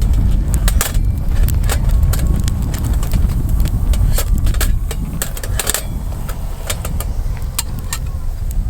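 Wind rumbling on the microphone, with scattered sharp clicks and knocks throughout.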